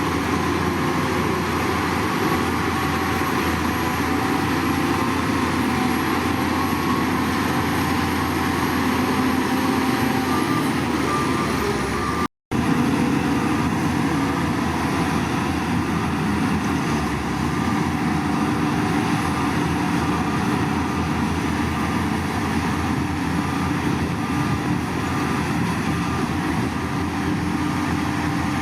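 Heavy diesel machinery engine running steadily, with a brief cut to silence about twelve seconds in before the sound resumes.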